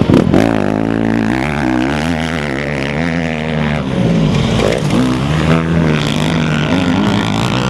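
Motocross motorcycle engines running and revving, their pitch wavering up and down.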